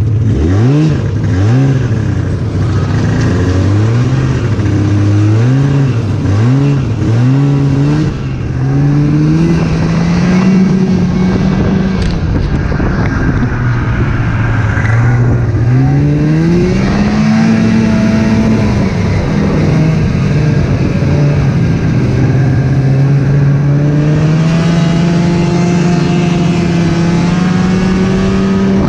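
Snowmobile engine running under way, its pitch rising and falling repeatedly with the throttle over the first several seconds, then climbing gradually and holding steadier near the end.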